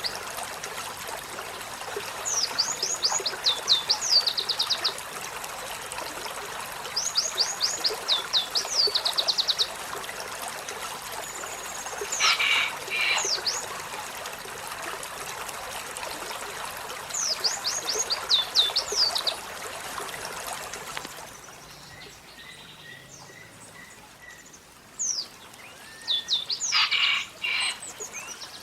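Olive-backed sunbird singing: phrases of quick, high down-slurred notes running into a short trill, repeated about every five seconds, with a few sharper calls between. Under it is running water, which drops away about three-quarters of the way through.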